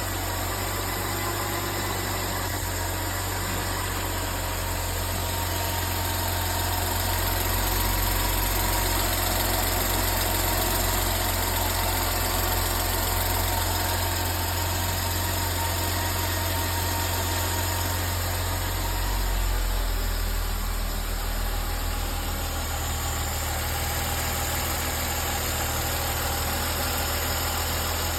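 Freshly rebuilt Mercedes M272 V6 petrol engine idling steadily after its first start, a continuous low hum with a slight shift in its note about twenty seconds in.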